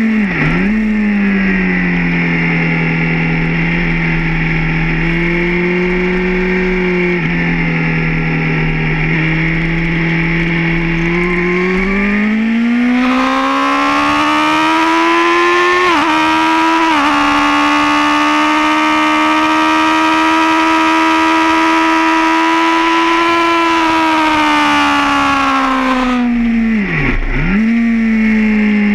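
Suzuki GSR750 inline-four motorcycle engine heard from on board at track speed, with wind rush. The revs climb about halfway through and hold high, and the pitch dips sharply and recovers at gear changes, twice in quick succession mid-way and again near the end.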